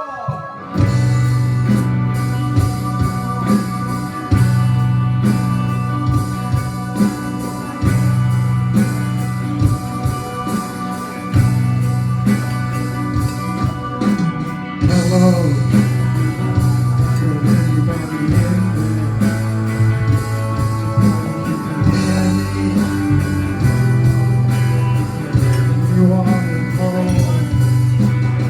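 Rock band playing an instrumental passage, with electric guitar, bass holding long low notes and drums keeping a steady beat; it starts up sharply within the first second.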